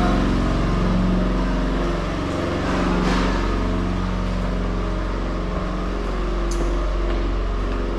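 Standby generator's engine running at a steady speed under the load of the house lights, a constant hum that does not sound like it is straining.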